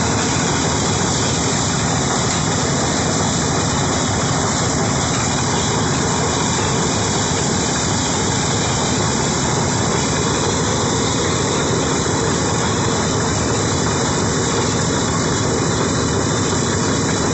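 Rice harvesting machine running steadily: a dense, even engine and machinery noise with a steady high whine, no change in speed.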